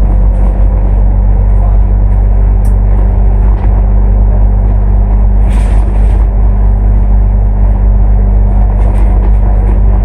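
Cummins ISL8.9 diesel engine of an ADL Enviro500 MMC double-decker bus running steadily, a constant low hum. A short hiss of air comes about five and a half seconds in.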